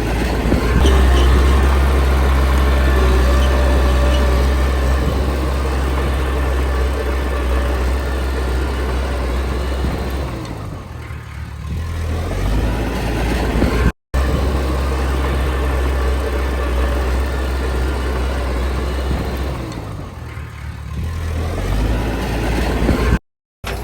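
Heavy diesel engine of a Komatsu D20P bulldozer running hard with a deep, steady note. Its revs dip and climb back about halfway through and again near the end. The sound cuts out abruptly for a moment twice.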